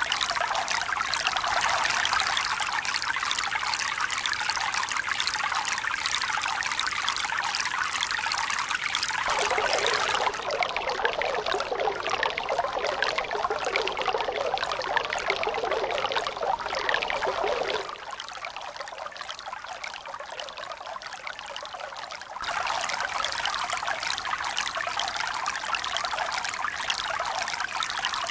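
Steady running, trickling water with no swell of breaking waves. The sound changes abruptly several times: it thickens about a third of the way in, turns quieter and thinner about two-thirds in, then jumps back to its first character, as at cuts between spliced recordings.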